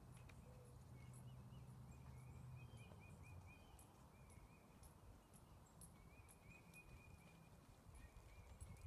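Near silence: faint outdoor ambience with a bird chirping in quick runs of short notes over a low rumble.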